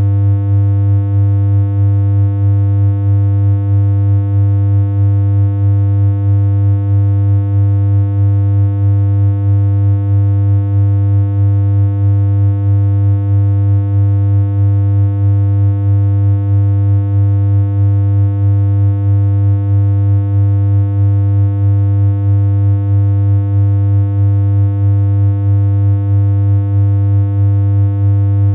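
Synthesized electronic hum from a BeepBox chiptune synth: one steady low tone with a stack of overtones, held unchanged, pulsing slightly in loudness at an even rate.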